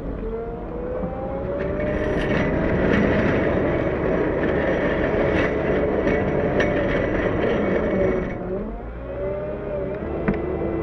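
Cat 908 compact wheel loader's diesel engine revving up and working hard, its pitch climbing early, holding, then dropping about eight seconds in. While it is revved up, a steady high whine and a scatter of sharp clicks and scrapes sound over it.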